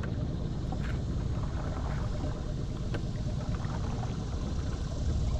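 Small boat motor running slowly at a steady low rumble, with no change in speed.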